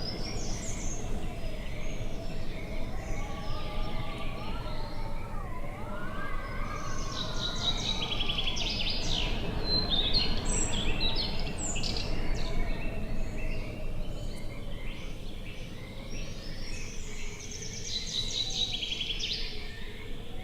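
Songbirds singing in quick trilled phrases, over a steady low rush of outdoor noise. A faint wavering tone rises and falls in the middle.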